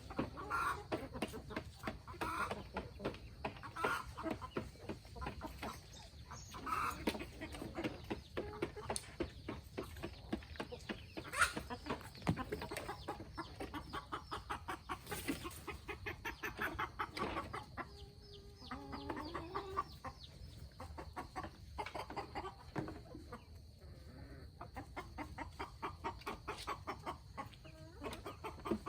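A flock of chickens clucking, with a dense patter of many quick small clicks throughout.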